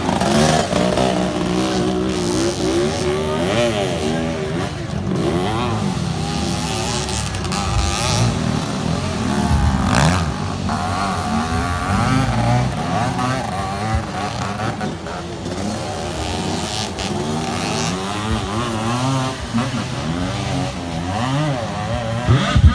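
Motocross dirt bikes racing, their engines revving up and falling back again and again through gear changes, several running at once.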